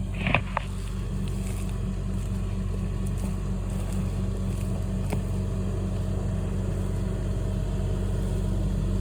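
An engine running steadily with a low, even hum, and a couple of short clicks about half a second in.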